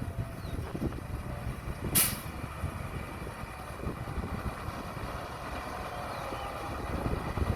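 Heavy-equipment diesel engine running with a steady low rumble, and a short, sharp hiss about two seconds in.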